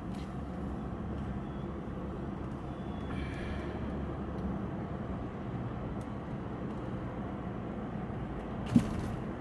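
Steady road and engine noise inside a moving car's cabin, a low even rumble, with one short sharp knock near the end.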